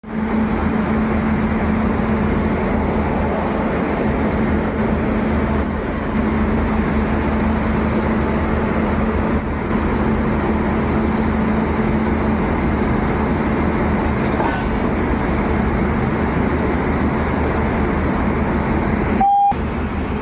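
A train running steadily: a continuous rumble with a steady low hum. A short, clear beep near the end.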